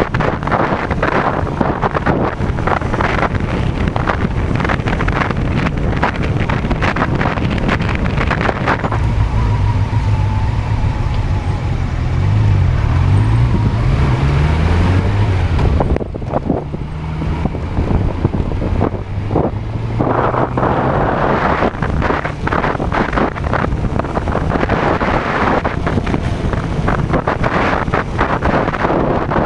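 Honda CB400 motorcycle engine running on the move, with heavy wind buffeting on a handlebar-mounted camera's microphone. The wind eases for several seconds in the middle, where the engine note is clearer and rises and falls, then the buffeting returns.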